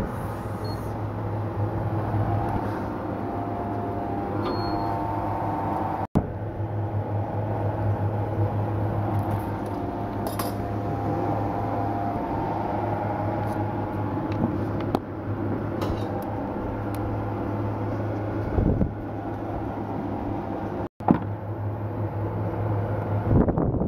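Workshop sound of wheel balancing: a steady machine hum with wavering tones, and a few sharp metallic clicks and clinks from work on the wheel.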